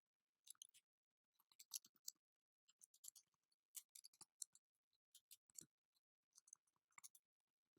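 Faint, irregular clicks of a computer keyboard being typed on, with near silence between the keystrokes.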